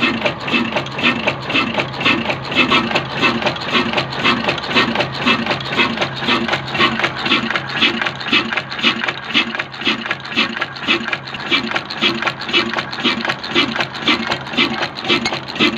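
An old 22 hp Hafiz desi diesel engine running steadily with an even, regular beat, driving a flour mill.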